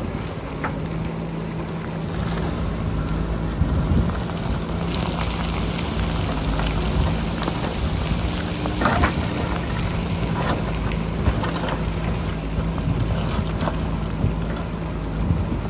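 Diesel engine of a JCB backhoe loader running steadily while the machine works a rocky hillside, with scattered clanks of the bucket against rock. Wind is on the microphone, adding a hiss from about five seconds in.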